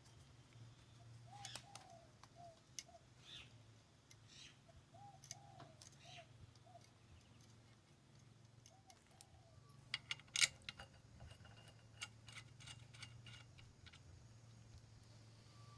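Faint bird calls: short repeated notes in three little groups. Scattered sharp clicks and knocks sound over a low steady hum, the loudest clicks about ten seconds in.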